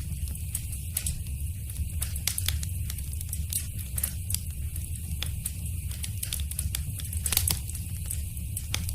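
Wood fire crackling in a fireplace: frequent irregular snaps and pops over a steady low rumble, with a louder snap about seven seconds in.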